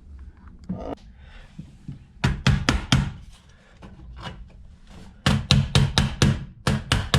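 Sharp knocks on wood as a Wiremold raceway corner fitting is fastened to the log wall: a short run of about four strikes a couple of seconds in, then a quicker run of about eight near the end.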